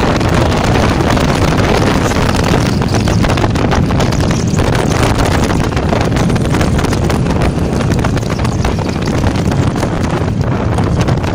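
IZh Jupiter 5's two-stroke twin-cylinder engine running steadily while the motorcycle rides along, with wind noise on the microphone.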